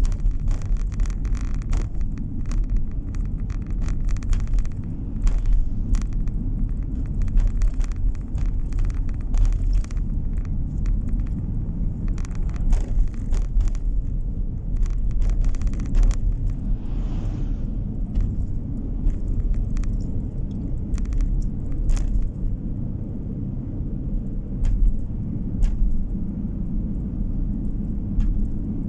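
A moving car heard from inside: a steady low rumble of tyres and engine on the road, with frequent small knocks and rattles throughout.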